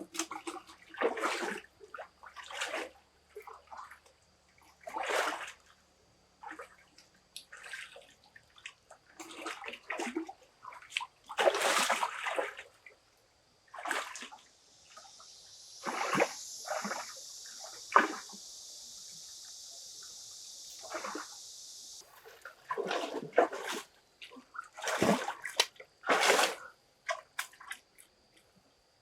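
Water splashing and sloshing in irregular bursts, with a steady hiss for several seconds in the middle.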